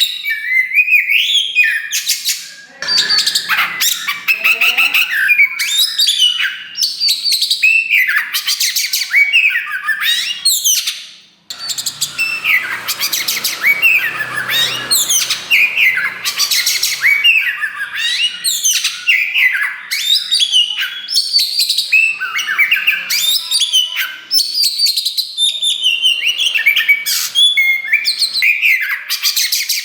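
Oriental magpie-robin of the black 'kacer wulung' form singing loudly and without a break, a fast run of varied whistles, slurs and trills. About eleven seconds in it stops briefly, then gives a few seconds of harsher, rasping notes before the clear phrases return.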